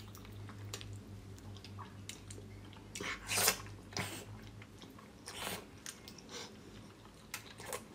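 Close-miked eating: a person chewing and biting food, with several louder wet mouth sounds, the loudest about three and a half seconds in.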